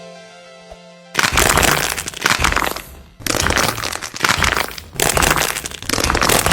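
Hardened wax coating on squishy foam toys cracking as it is squeezed: three long runs of dense crackling, the first starting about a second in, over background music.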